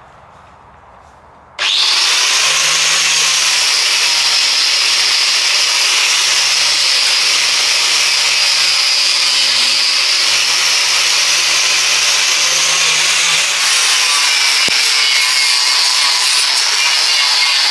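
A power tool starts up abruptly about two seconds in and runs loud and steady on metal chassis work.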